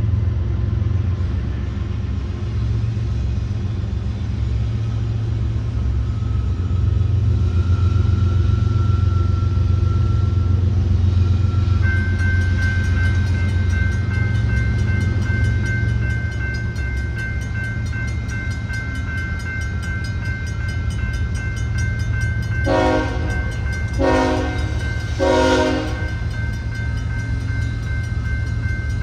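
A diesel locomotive (BNSF SD70ACe) rumbling low throughout. About twelve seconds in, the Safetran grade-crossing bell starts ringing with rapid, steady strokes, and near the end the locomotive horn gives three short blasts, the signal for backing up in switching.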